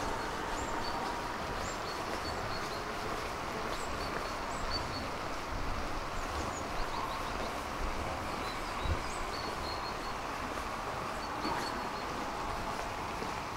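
Small birds chirping, many short high calls scattered throughout, over a steady background hiss, with a few low thumps in the middle.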